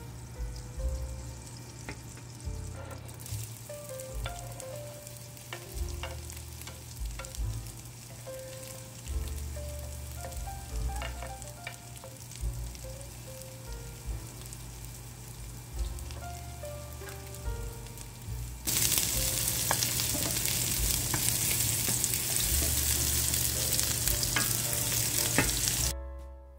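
Butter and oil sizzling in a nonstick frying pan with diced onion and garlic frying in it, a wooden spoon now and then clicking and scraping against the pan. The sizzle grows much louder about two-thirds of the way through and drops away just before the end.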